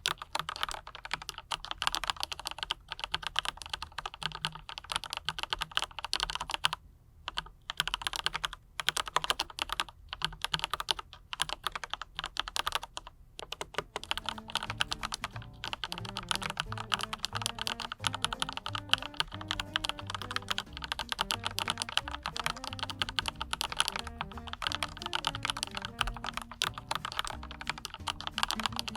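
Fast continuous typing on a mechanical keyboard fitted with Autumn Rain switches and PBT double-shot keycaps: a dense run of key clacks with a couple of brief pauses. Soft background music comes in about halfway through.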